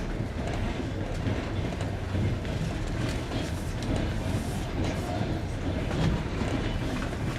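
Passenger train coach running over jointed rails, heard from inside by the window: a steady rolling rumble with the clack of the wheels at the rail joints.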